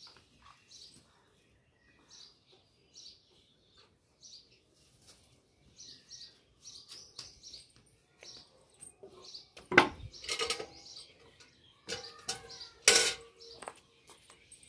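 Small birds chirping in short, high calls again and again, broken by a few loud, sharp knocks or clatters about two-thirds of the way through and again near the end.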